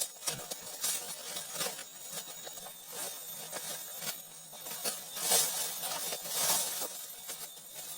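Scattered light knocks and clicks with rustling, and two louder rustling swishes about five and six and a half seconds in.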